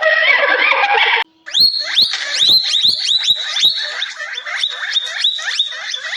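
A pitched animal call. Then, after a brief break, a rapid series of sharp, high chirps, several a second, each one dropping in pitch.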